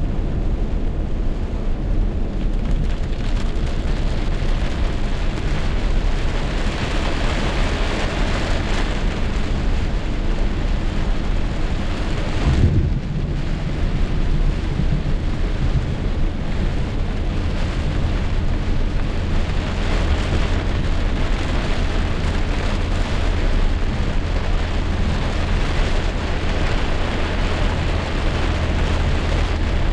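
Heavy rainstorm: a steady, loud downpour with a constant low rumble underneath. A brief louder low burst comes about twelve seconds in.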